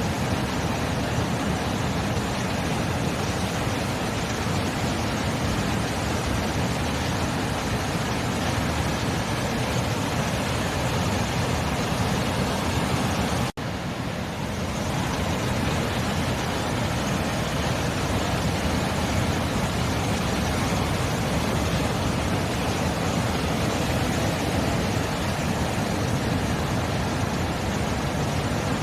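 Steady wash of sea surf, an even rushing noise, broken by a sudden momentary dropout about halfway through, after which the sound comes back slightly quieter and builds up again.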